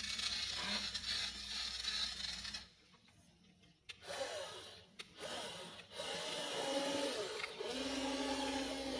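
Small electric motors of a WLtoys RC excavator whirring in short runs. The sound stops for about a second near the middle, then comes back as a wavering whine that breaks off briefly a couple of times.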